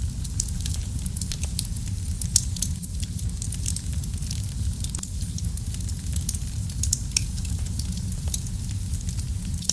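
Wood fire burning in a fireplace: a steady low rumble of flame under a dense, irregular scatter of sharp crackles and pops, with one louder pop a little over two seconds in.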